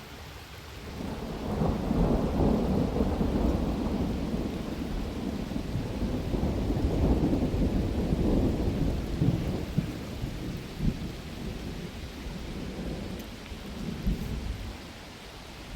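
Heavy rain falling steadily, with a long roll of thunder that builds about a second in, rumbles for several seconds and dies away.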